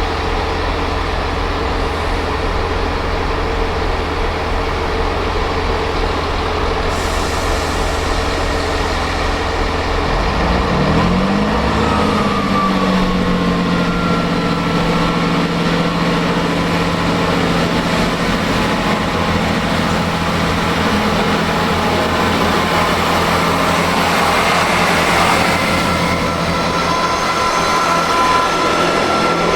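Diesel train engine running at idle, then revving up about ten seconds in and holding a higher, steady note.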